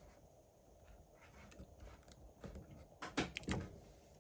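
Faint, scattered light clicks and taps of small tools and parts being handled during a phone battery repair, with a quick cluster of clicks about three seconds in.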